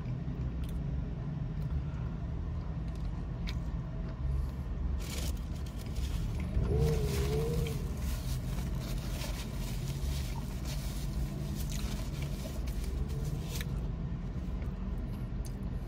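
Chewing and wet mouth sounds from eating a fried chicken sandwich, with crackly clicks clustered in the middle, over a steady low rumble inside a car cabin. A short wavering hum comes about seven seconds in.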